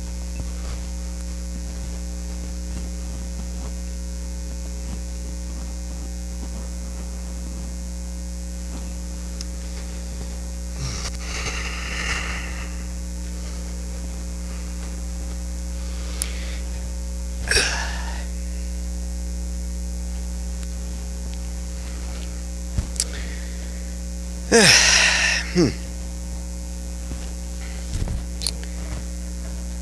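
Steady electrical mains hum, with a few brief soft noises about a third of the way in, a little past halfway and near the end.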